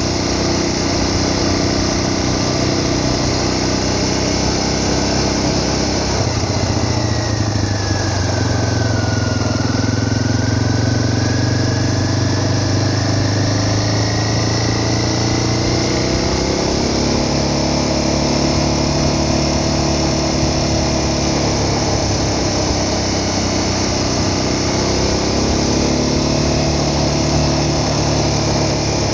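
Vehicle engine running continuously while travelling. Its pitch drops to a low point about nine seconds in, then climbs again and holds steady.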